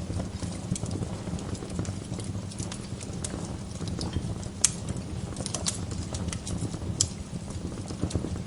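Wood fire crackling in a fireplace: a steady low rumble of burning with frequent small pops and snaps, and a few louder sharp pops in the second half.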